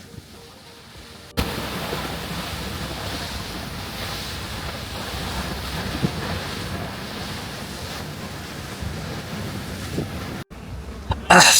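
Steady rush of wind over the microphone mixed with sea-water noise on the open deck of a moving boat. It cuts in abruptly a second or so in and cuts off abruptly near the end.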